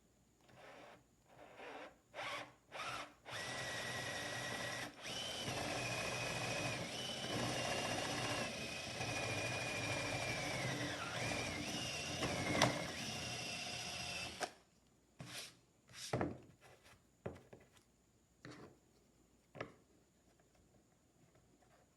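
Handheld power drill run in a few short trigger pulls, then held on for about eleven seconds with its motor whine shifting in pitch as the load changes. A few short clicks and knocks follow after it stops.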